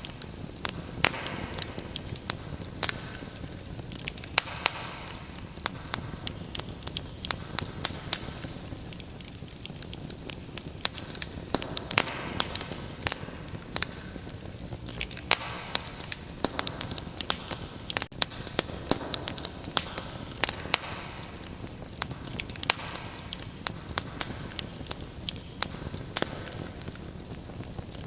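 Wood fire crackling in a fireplace: irregular sharp pops and snaps, many a second, over a steady low hiss of burning, with the hiss swelling softly every few seconds.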